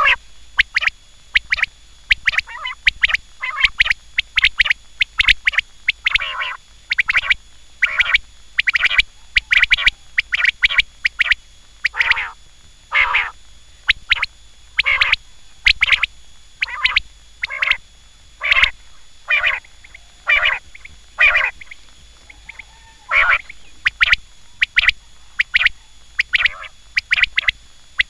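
Quail calling: short calls repeated over and over at about one to two a second, with a few brief pauses.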